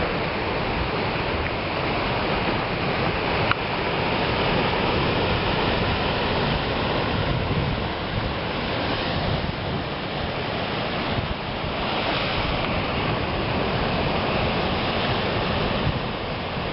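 Ocean surf breaking and washing on the shore in a steady, loud roar of water, with wind buffeting the microphone.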